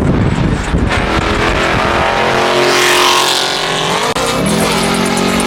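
A Mopar 392 HEMI V8 car engine pulling hard under acceleration. About four seconds in there is a brief sharp break as it shifts gear, and then it pulls again.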